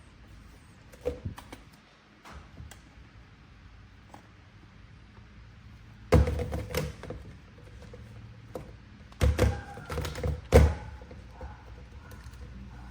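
Unboxing handling noise: cardboard packaging and plastic parts being handled, with several dull knocks and thunks, the loudest a little past the middle and again near the end, and softer scraping and rustling between.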